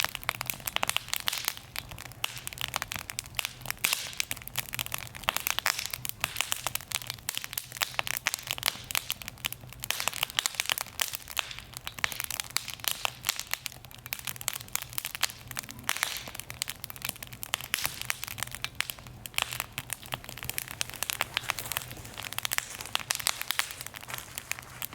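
Wood fire crackling steadily in a small Coleman Fire Disc Solo fire pit, a dense run of sharp pops and snaps.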